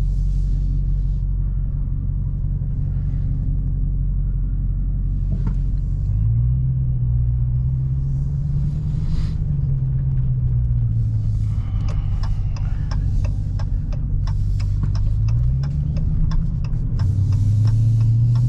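Dodge Challenger Hellcat's supercharged 6.2-litre V8 engine, run in under break-in limits, pulling the car along at low revs; its note rises about six seconds in, settles back, and rises again near the end as the car speeds up.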